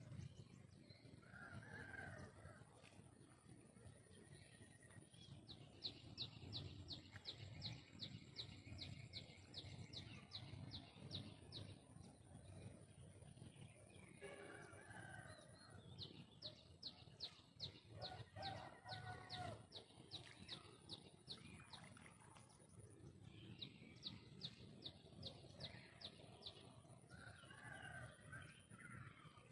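Faint bird calls: three runs of quick, evenly repeated high notes, with lower calls in between, over a steady thin high whine.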